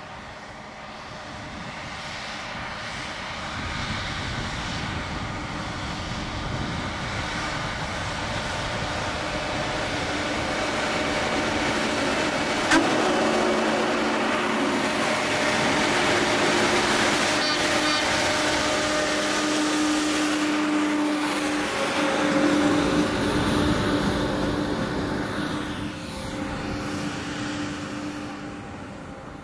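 Diesel engines of railway track machines, a ballast regulator and a ballast tamper, running along the line. The sound builds as they approach, stays loud through the middle as they pass, and fades near the end, with one sharp click about a dozen seconds in.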